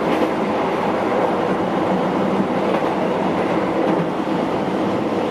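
Keihan 800-series electric train running along the track, heard from inside the car: a steady rumble of wheels on rail with a few faint clicks.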